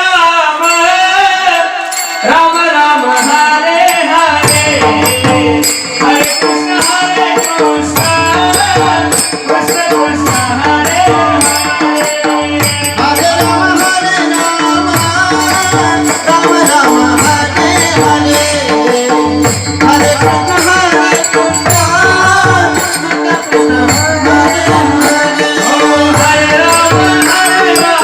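Devotional kirtan music: a solo voice singing a melody over steady sustained drone tones with percussion accompaniment. Deep drum strokes join about four seconds in and recur in a regular cycle every two to three seconds.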